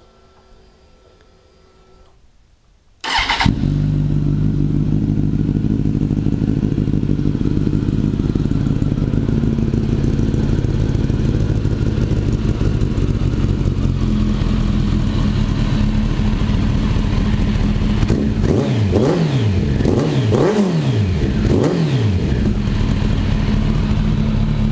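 2008 Kawasaki ZX-10R inline-four running through an aftermarket Danmoto carbon-fibre exhaust: it starts suddenly about three seconds in and idles loudly and steadily. Near the end it is blipped several times in quick succession, each rev rising and falling, before it settles back to idle and cuts off.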